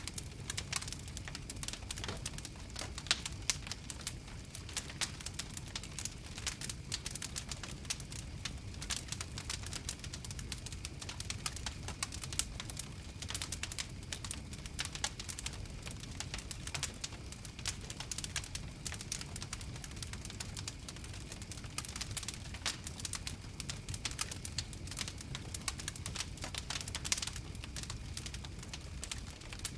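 Wood fire crackling, with frequent irregular sharp pops and snaps over a low steady rumble.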